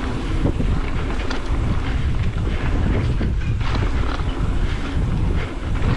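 Ibis Ripmo carbon full-suspension mountain bike descending a rough downhill trail at speed: a steady rumble of tyres on dirt, with the chain and frame clattering and wind buffeting the microphone.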